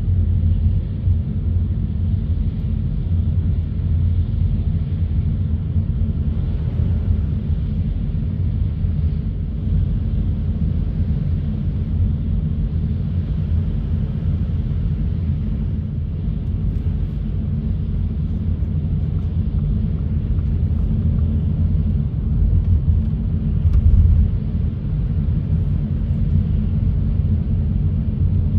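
Steady low rumble of a car driving, heard from inside the cabin: engine and tyre noise on wet, slushy roads, swelling briefly near the end.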